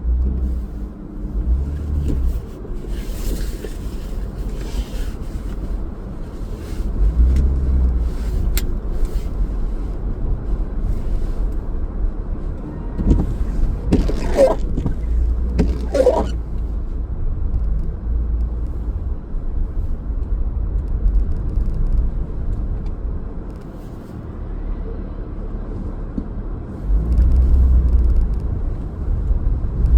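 Car driving, with a steady low rumble of engine and road noise and two short sharp sounds about halfway through.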